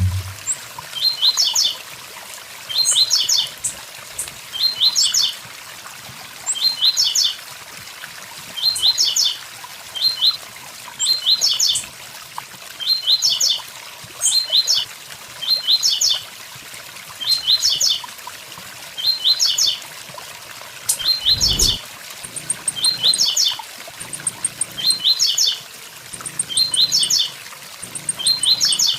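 Blue-black grassquit (tiziu) singing its 'tui tui zel zel' song: a short phrase of a few quick, high rising notes, repeated at a very regular pace about every second and a half. Steady waterfall hiss runs underneath.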